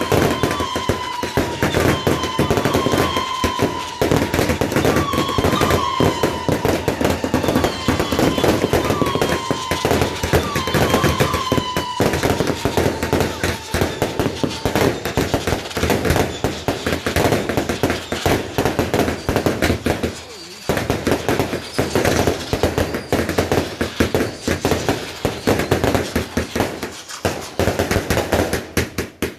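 Consumer firework display: dense, rapid crackling and banging from firework cakes. Over it, for the first fifteen seconds or so, a whistling firework shrieks on a steady high note that slowly falls in pitch, with short chirps every second or so. There is a brief lull about twenty seconds in, then the rapid bangs and crackle carry on.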